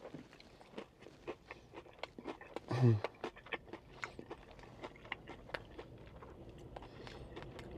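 Close-miked chewing of a mouthful of crispy fried chicken skin and rice: soft irregular crunches and mouth clicks, with one short "mmm" hum about three seconds in.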